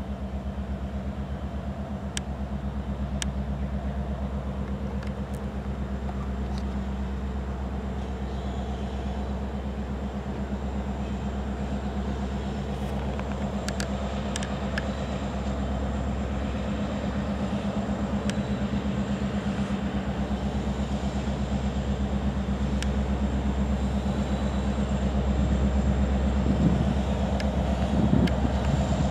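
Diesel freight locomotives, led by an EMD SD70ACe, pass slowly with a steady low engine drone that grows gradually louder. Near the end, a few knocks and a rougher rumble come in as the freight cars' wheels roll by.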